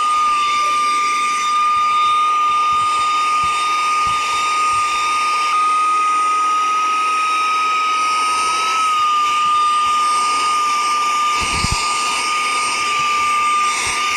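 Saker 3-in-1 cordless handheld mini vacuum with a brushless motor, running steadily with a high whine over a rushing airflow hiss; the pitch wavers slightly now and then. A brief low bump comes late on.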